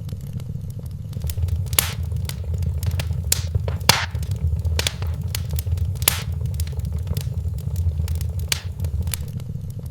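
Wood fire crackling in a fireplace, with a steady low rumble and frequent sharp pops, the loudest about four seconds in.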